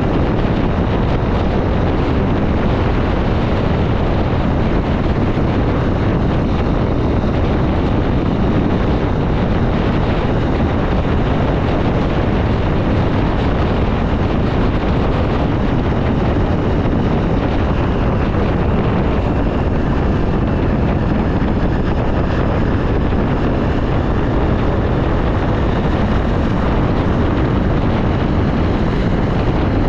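Wind noise on the camera microphone from a Honda XR 250 Tornado motorcycle on the move, with the single-cylinder engine running underneath, loud and steady throughout.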